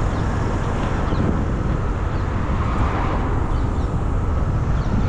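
Steady wind buffeting the microphone over the rumble and road noise of a bike on the move.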